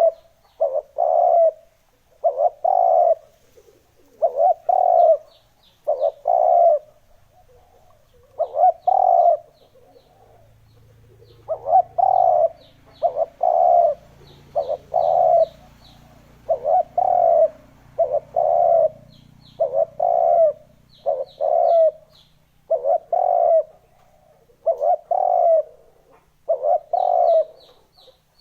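Spotted dove cooing over and over, phrases of two or three short coos about every two seconds. It is a calling recording of the kind used to lure wild spotted doves.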